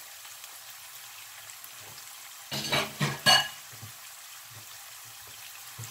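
Chopped onion, garlic and ají peppers frying gently in oil in a nonstick wok, a steady soft sizzle. About two and a half seconds in there is a brief, louder sound lasting about a second.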